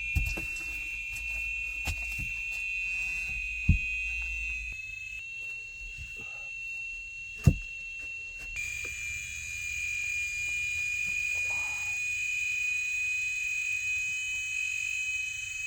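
Rainforest insects droning in a steady high-pitched chorus, with a few sharp knocks cutting through, the loudest two at about four and seven and a half seconds in.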